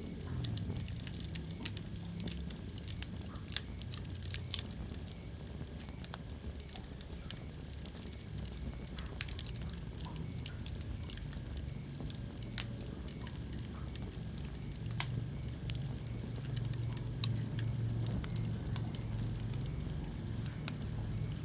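Wood fire in a fireplace crackling, with irregular sharp pops and a few louder snaps over a steady low rumble of the flames.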